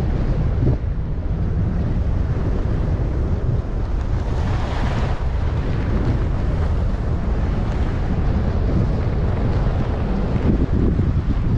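Wind buffeting the microphone: a steady low rumble, with a brief brighter hiss about four to five seconds in.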